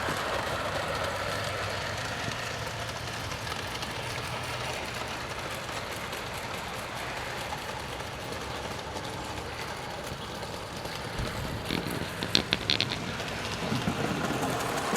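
Bachmann G gauge model locomotive running on outdoor track: a steady hiss with a faint low hum, and a short rattle of clicks about twelve seconds in.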